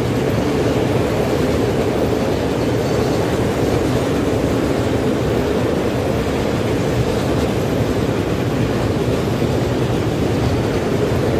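A long freight train of coal-loaded open wagons rolling past, with a loud, steady noise of steel wheels on the rails.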